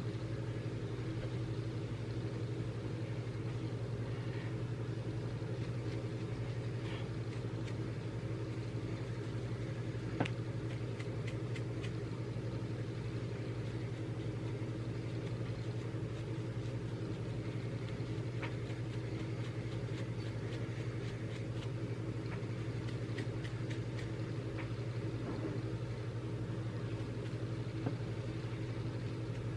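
A steady low hum with faint, scattered ticks and one sharp click about ten seconds in.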